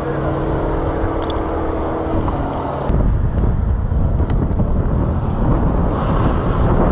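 Wind buffeting the microphone in strong gusts, with a steady motor hum for the first three seconds that stops abruptly.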